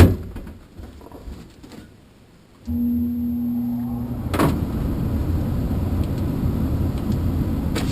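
A sharp click, then about three seconds in a furnace blower motor starts up and runs with a steady low hum and rush of air, a low tone fading out after about a second and a half. A single knock sounds a little later. The blower runs with its fan wheel cleared of the paper that had been striking its blades.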